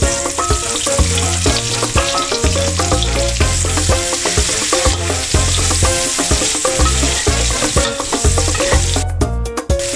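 Sliced shallots sizzling in hot oil in a wok, being sautéed and stirred with a spatula scraping the pan, the sizzle thinning out near the end. Background music with a repeating bass line plays over it.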